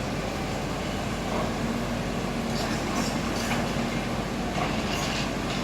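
Heavy demolition machinery running with a steady rumble and hum, with several short scrapes or grinds of material.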